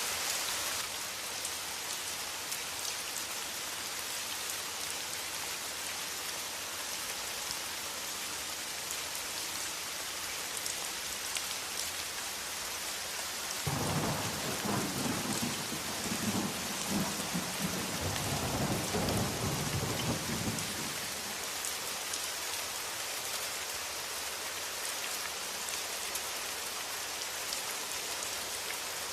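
Steady heavy rain, with a roll of thunder rumbling for several seconds about halfway through.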